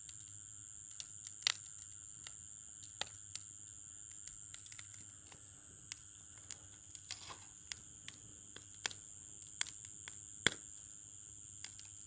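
Wood campfire crackling: irregular sharp pops and snaps, a sharper one about ten seconds in, over a steady hiss.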